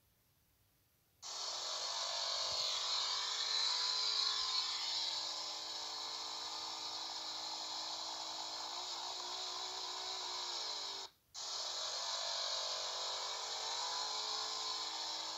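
Honda motorcycle engine held at high revs during a rear-tyre burnout: a steady high buzz over a strong hiss, the revs dipping slightly now and then. It cuts out for a moment about eleven seconds in and starts again at the same pitch.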